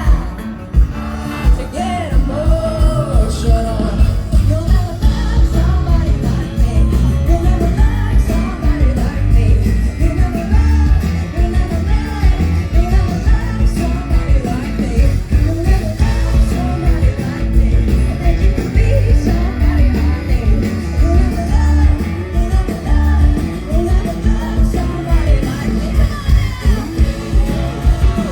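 Live pop-rock band playing over a loud PA, with drums and bass keeping a steady beat and a voice singing over it.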